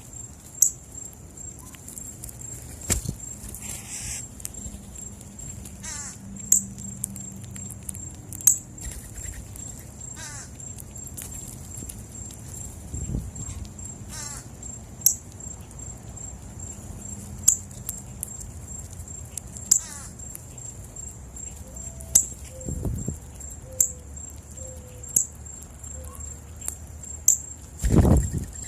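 Wild birds at a birdseed feeding spot: sharp short clicks and calls every second or two, a few fluttering calls, and a steady high tone underneath. A few soft low thumps, the strongest near the end.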